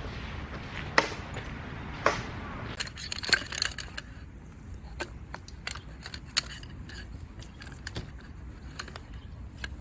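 Camping gear being handled: two loud sharp knocks in the first two seconds, then a run of smaller clicks and clinks, over steady outdoor background noise.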